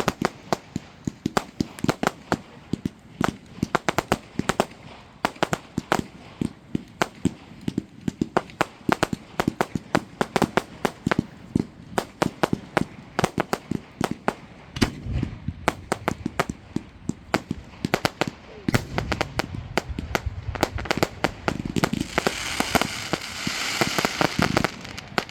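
Fireworks display: a rapid string of sharp bangs, several a second, turning into a dense crackling spell near the end.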